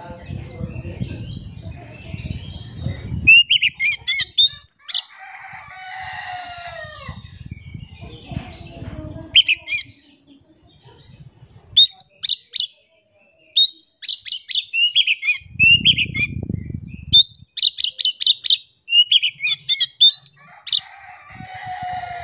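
Oriental magpie-robin (kacer) singing in fast runs of loud, sharp rising-and-falling whistled notes, with softer falling notes between. Short patches of low rumbling noise come at the start, around a third of the way in and near the middle.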